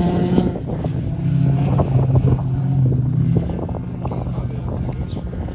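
Car engine running with a steady note that drops lower about a second in and fades from about three and a half seconds on.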